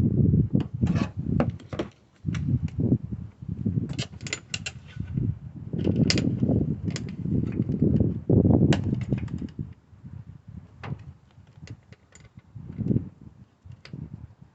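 Irregular clicks and light clatter over uneven low rumbling, the sound of things being handled close to the microphone.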